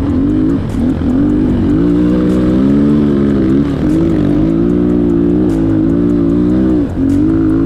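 Chinese enduro motorcycle's single-cylinder engine running under throttle while riding, its pitch rising and falling, with three brief drops about a second, four seconds and seven seconds in.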